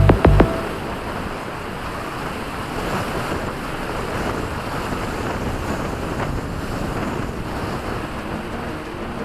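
Wind buffeting the microphone, a steady rushing noise. A piece of music cuts off about half a second in.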